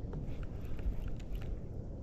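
Wind buffeting the microphone as a steady low rumble, with light scattered clicks over it.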